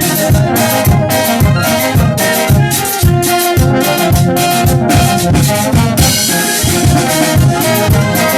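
Brass band playing: trumpets and trombones carry the tune over a steady bass-drum beat of about two strokes a second. Cymbals ring out for about a second near the end.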